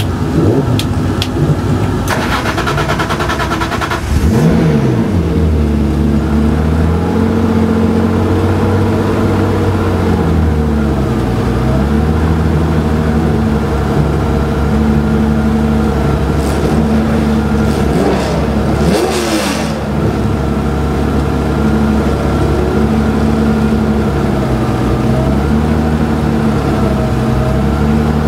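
Turbocharged BMW E46 M3 straight-six race engine heard from inside the stripped cabin: about two seconds of starter cranking, then it catches about four seconds in and settles into a rough idle whose pitch wanders up and down.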